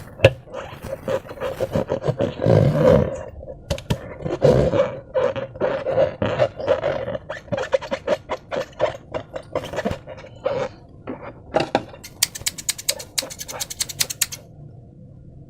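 Slime being squeezed and worked by hand: wet squelches, gurgles and crackling pops of trapped air, with a fast run of sharp clicks near the end.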